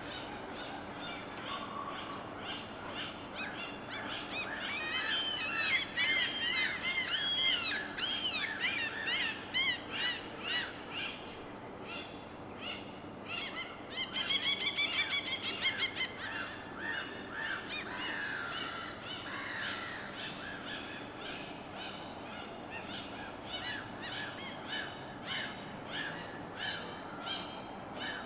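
Many birds calling and chirping in quick overlapping calls, busiest in two flurries, over a steady low wash of harbor water.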